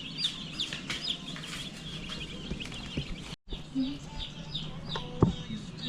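A brooder full of day-old Cornish cross chicks peeping, many quick high chirps overlapping. The sound drops out for a moment about halfway through, and a single knock comes near the end.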